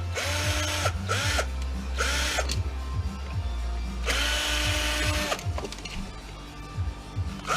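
Power drill/driver spinning in short runs to back out screws, its motor whine rising as each run starts and falling as it stops. There are four runs, three quick ones in the first few seconds and a longer one about four seconds in.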